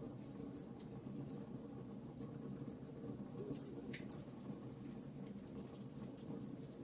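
Wood fire burning in a fireplace, crackling with scattered small ticks and pops over a steady low rumble; one sharper pop about four seconds in.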